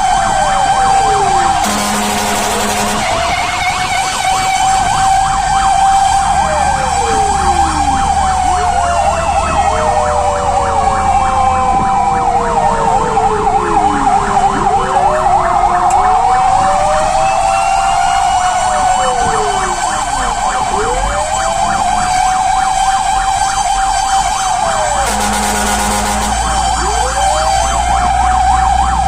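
Fire truck sirens on an emergency run, several at once: a held wail with others sweeping up and down in pitch and a fast pulsing yelp in the middle. Two short horn blasts cut in, about two seconds in and again near the end.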